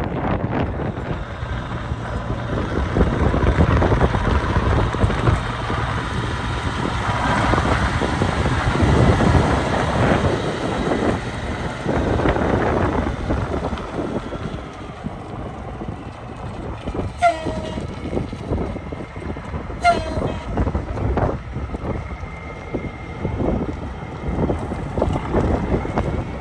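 Vehicles running and driving past, a steady rumble of engine noise, with two short horn toots about two and a half seconds apart, roughly two-thirds of the way through.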